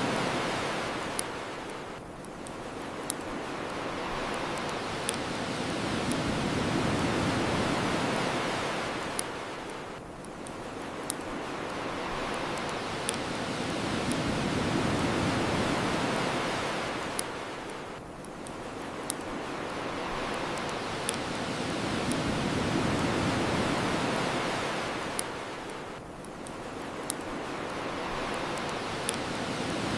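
Ocean waves washing onto the shore, the surf swelling and falling back about every eight seconds, with the sharp pops and crackles of a bonfire every second or two.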